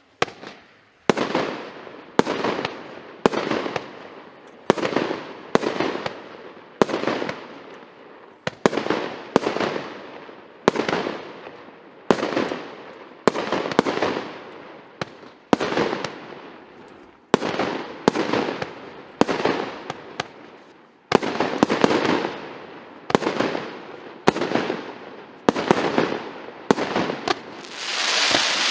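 A 110-shot firework cake (battery) of 1.25- and 1.4-inch shells firing in sequence, about one shot a second. Each shot is a sharp bang followed by a fading hiss of the burst, and the sound thickens into a dense, continuous rush near the end.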